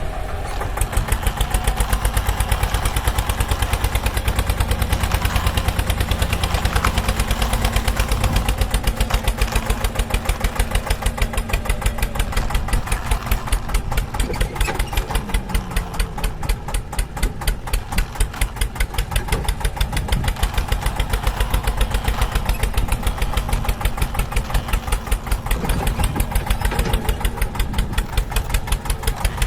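Tractor engine running steadily with an even, rhythmic chug of several beats a second.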